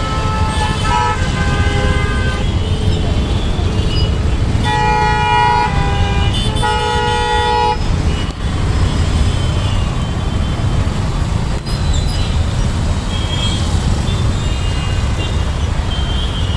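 Congested road traffic: a steady rumble of engines with vehicle horns honking. Two long horn blasts, each over a second, come about five and seven seconds in and are the loudest sounds, with shorter, weaker horn toots in the first couple of seconds and again near the end.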